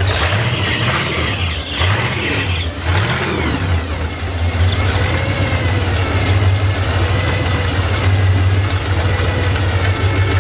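Dragster engine running, revved up and down a few times in the first few seconds, then idling steadily.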